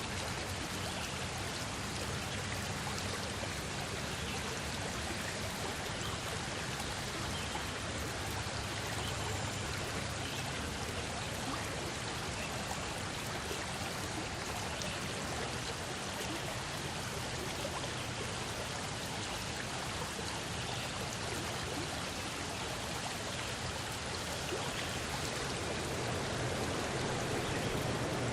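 Running water, a steady unbroken rush with no distinct drops or strokes, growing a little louder near the end.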